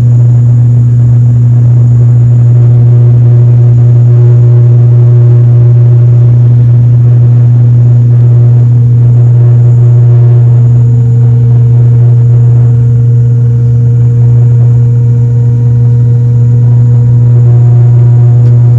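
ATR 72-500 turboprop engines and six-blade propellers running steadily, a loud, even propeller drone with a deep hum and several steady higher tones over it, typical of the takeoff run or early climb.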